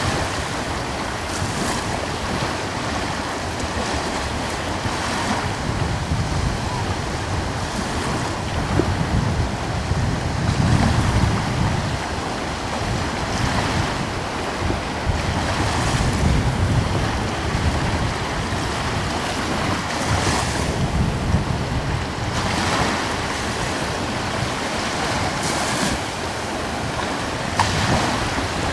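Gentle ocean waves washing ashore, a hiss of surf every few seconds, with a light breeze rumbling low on the microphone.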